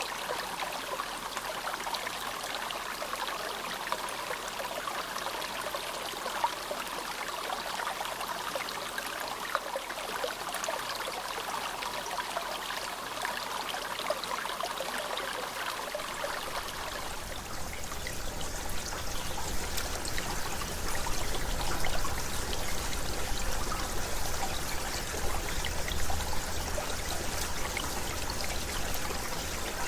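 Shallow mountain river murmuring steadily. About halfway through, the sound changes to a louder, fuller rush with a deeper rumble.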